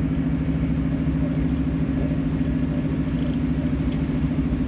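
Passenger train running at speed, heard from inside the carriage: a steady, even rumble of the train's running noise.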